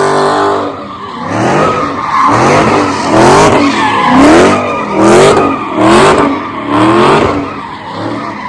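Car engine revving in repeated bursts about once a second over tyre squeal, as the car spins donuts; a held high-rev note drops off just under a second in, and the sound fades near the end.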